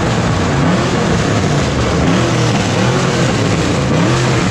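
Car engines revving hard, their pitch rising and falling over and over, over a loud, steady rushing noise.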